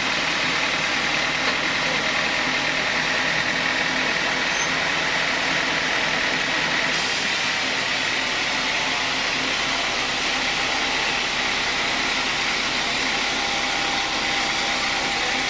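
Sawmill machinery running steadily, a constant mechanical drone with more high hiss from about seven seconds in.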